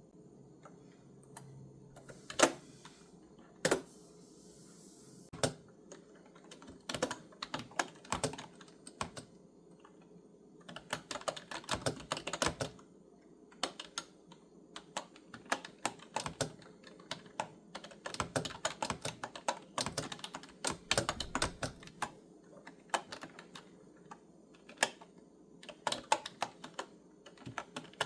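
Typing on a clicky retro-style keyboard: a few single key presses at first, the first of them the loudest, then irregular runs of quick keystrokes with short pauses between them.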